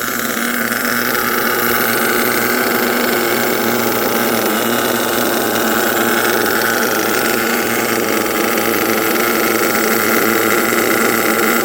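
Twin LRP .32 big-block nitro engines of an HPI Savage XL RC monster truck running steadily together, a high buzzing engine note with only slight swells in pitch and level.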